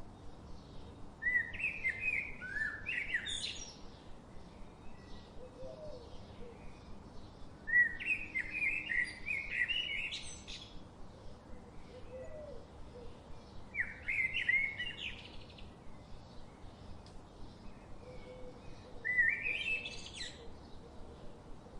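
A songbird sings a short, quick phrase four times, about every five to six seconds. Each phrase climbs to a high note at its end. Faint high chirping goes on underneath.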